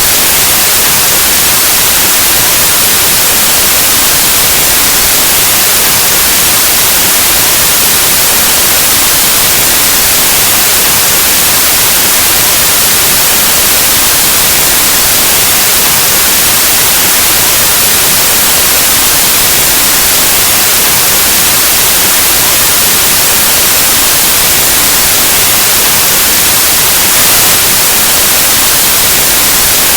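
Steady, loud white noise: an even, unbroken full-spectrum hiss like analog television static.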